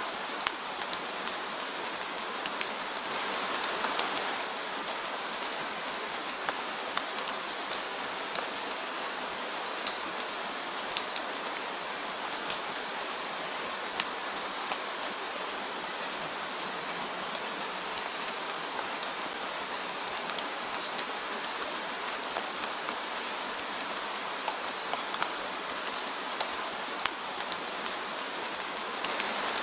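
Steady rain falling, an even hiss with many scattered drops ticking sharply on a hard surface.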